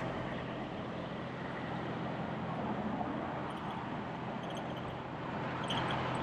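Semi truck's diesel engine running steadily, heard from inside the cab, with a low hum.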